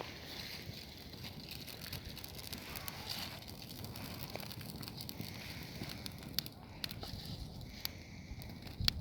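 Campfire crackling: a faint steady hiss with scattered sharp pops and snaps, which come more often in the last few seconds.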